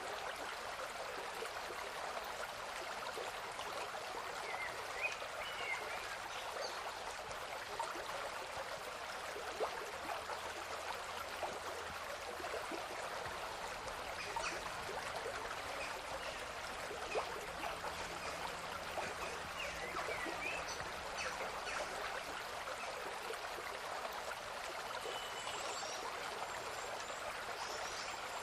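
River water running steadily, with scattered short bird chirps now and then.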